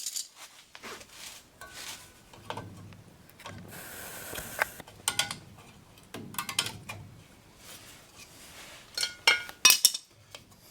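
Metal clinks, clicks and a brief scrape of drum brake hardware: return springs and hold-down clips being worked off the brake shoes with a brake spring tool, with a quick cluster of clinks near the end.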